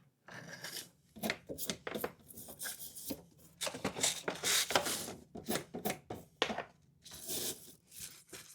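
Coil-cleaning wand brush scraping back and forth through dusty refrigerator coils: irregular scratchy strokes with short pauses between them.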